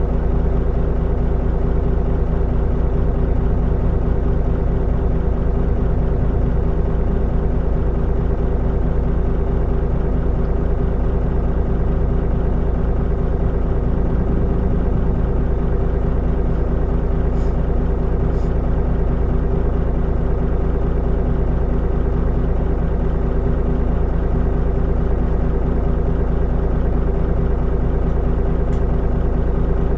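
Mitsubishi Fuso Aerostar city bus's diesel engine running steadily at an even pitch, with a heavy low rumble. A few faint light ticks sound about halfway through and near the end.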